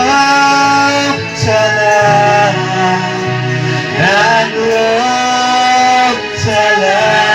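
Christian worship song: a male voice sings long held notes, sliding between pitches, over instrumental accompaniment with a steady bass line.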